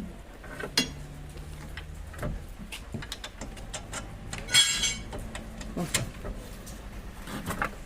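Metal tools and suspension parts clinking and knocking during reassembly of a car's front suspension, with scattered sharp clicks and one louder ringing metallic strike about halfway through. A faint steady hum runs underneath.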